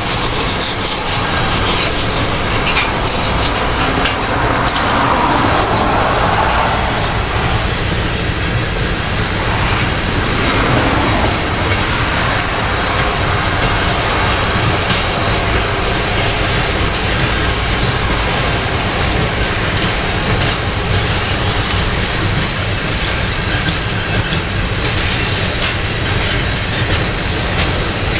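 Covered hopper cars of a slow freight train rolling past, their steel wheels clicking over the rail joints. Wind rumbles on the microphone under it.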